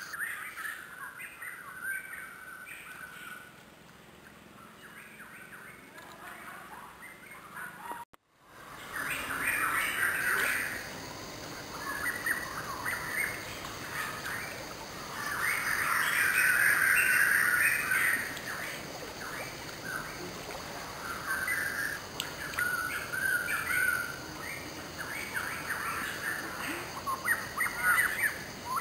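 Birds chirping and calling from the surrounding forest, with many short, high calls and a busier stretch a little past the middle. The sound cuts out briefly about eight seconds in.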